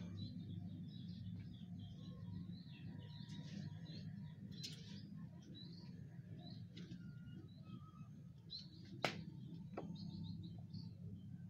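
Small birds chirping and twittering, many short high calls throughout, over a steady low hum. A sharp click comes right at the start and another about nine seconds in.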